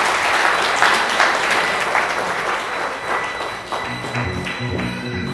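Audience applauding, the clapping loud at first and slowly thinning. Music with low bass notes comes in about four seconds in.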